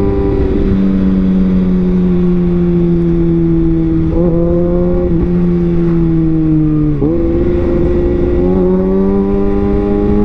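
Kawasaki Ninja ZX-6R's inline-four engine running under way. The engine note sinks slowly, breaks briefly about four and five seconds in, dips sharply about seven seconds in, then rises again near the end.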